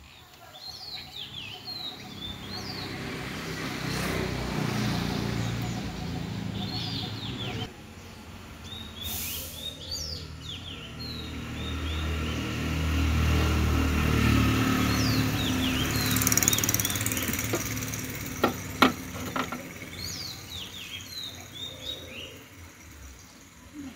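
Small birds chirping again and again over a low, swelling rumble, with a few sharp clicks about three quarters of the way through.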